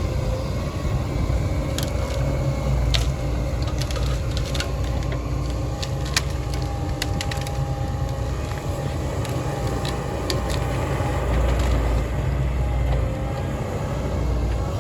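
Heavy diesel machinery running steadily, with scattered sharp knocks and cracks over it, typical of timber being handled.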